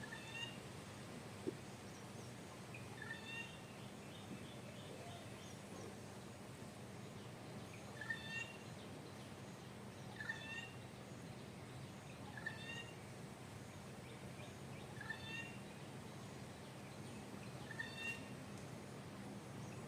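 A bird calling over and over: a short phrase of a few sharp notes, repeated about every two to three seconds, over a steady low hum.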